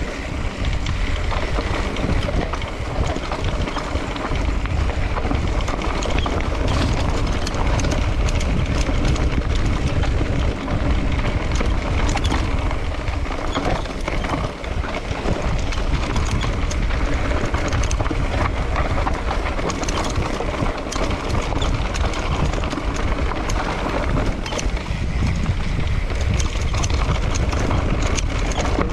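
Mountain bike riding fast down a dirt trail: wind buffeting the microphone, tyres rumbling on the ground and the bike rattling and clattering over bumps throughout.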